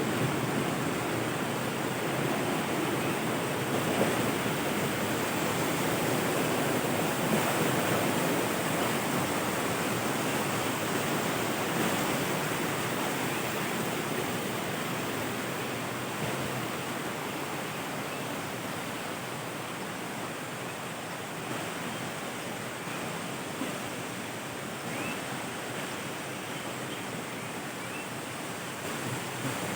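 Waterfall: a steady rush of falling water, easing a little partway through.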